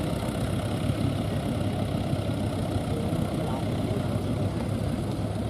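Tractor engine running steadily at idle, a low continuous rumble, with faint voices behind it.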